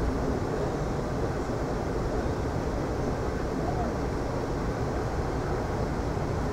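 Steady low rumble of a moving passenger train, heard from inside the passenger car.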